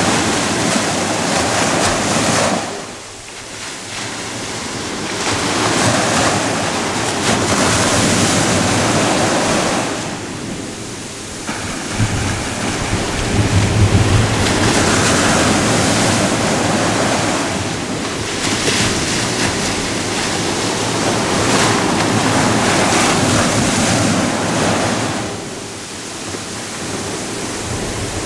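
Ocean waves breaking in long surges of rushing water, easing off briefly about three seconds in, again around ten to eleven seconds, and near the end.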